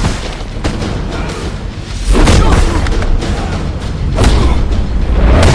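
Dramatic film score with heavy booming hits over a steady low rumble, four big hits spaced a second or two apart.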